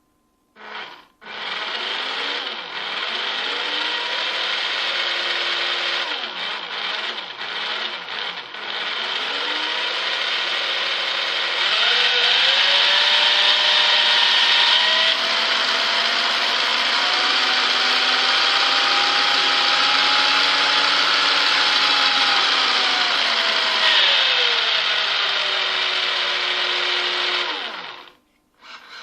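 Tamiya TT-01E radio-controlled car's electric motor and shaft-driven gears whining as the throttle is worked: a short blip, then the pitch rising and falling, held high for a long stretch in the middle, then winding down and stopping near the end. It is the first run-up of the freshly built electronics and drivetrain.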